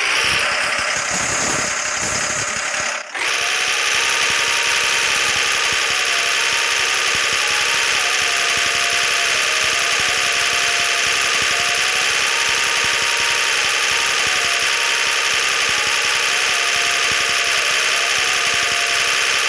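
Tractor engine running hard and steady under load, with a brief cut-out about three seconds in.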